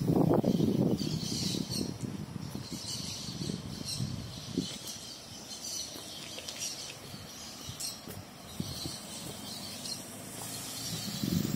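Birds chirping again and again over a low rumble of outdoor noise; the rumble is loudest in the first second and swells again near the end.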